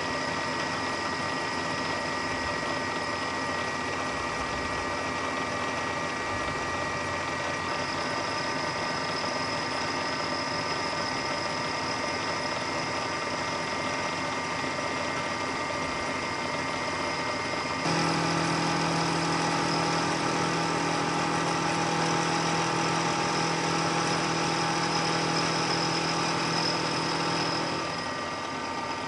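Milling machine running steadily while machining aluminum vise jaws, a constant machine hum with several steady tones. About 18 seconds in the sound changes abruptly and gets a little louder, with a lower-pitched hum added that stops shortly before the end.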